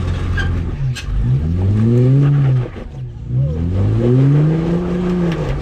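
A four-wheel-drive vehicle's engine revving up and easing off twice under throttle while rock crawling, each rise held for a second or more, with a few short knocks near the start.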